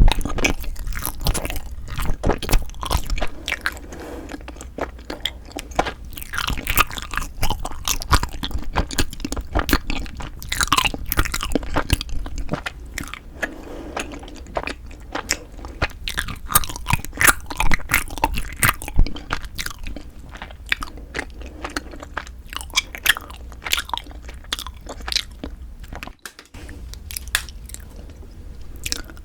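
Close-miked chewing and biting of frozen Kiri cream cheese and rice-cake ice cream, with dense, irregular crunching and crackling.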